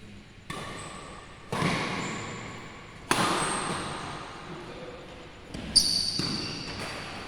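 Four sharp shuttlecock hits off badminton rackets during a rally, irregularly spaced, each echoing in a large sports hall, with brief high squeaks between them.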